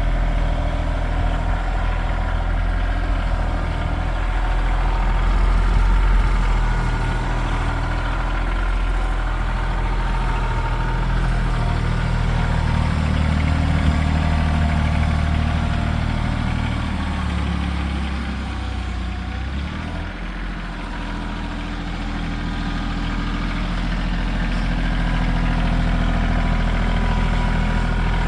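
Tractor engine running, its note shifting in the middle and dipping briefly about twenty seconds in.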